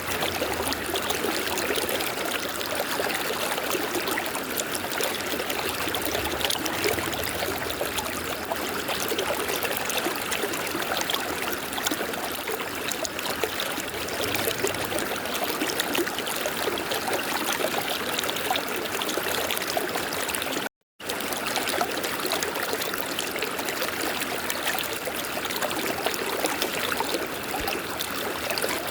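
River water running in a steady, dense rush, with a brief cut to total silence about two-thirds of the way through.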